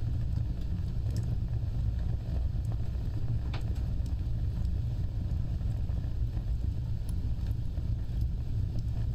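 Wood fire burning: a steady low rumble of flames with scattered small crackles and pops, one sharper crackle about three and a half seconds in.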